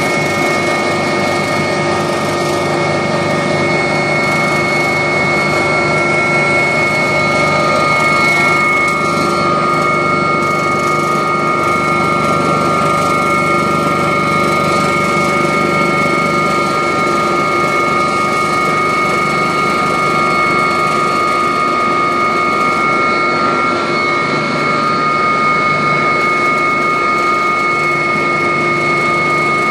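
Agusta helicopter in flight, heard from aboard: the turbine engine and rotors run steadily, with a constant high whine of several steady tones over dense engine noise.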